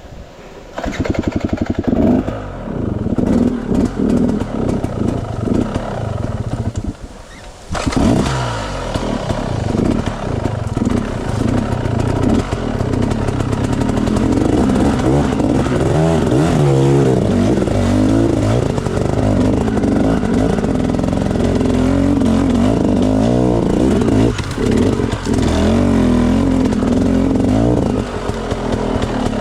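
Enduro dirt bike engine running and revving up and down in uneven bursts while being ridden. It drops lower for a couple of seconds about a third of the way in, then picks up again.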